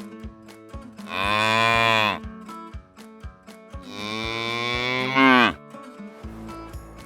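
A cow mooing twice: two long calls, each dropping in pitch as it ends, the second longer and louder at its close. Light background music with a regular beat runs beneath.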